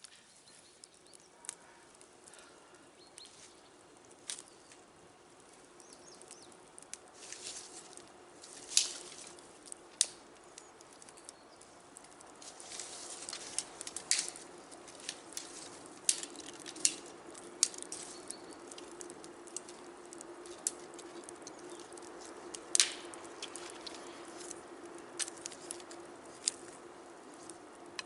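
Campfire burning, with irregular sharp pops and crackles of burning wood over a soft rushing that builds up several seconds in.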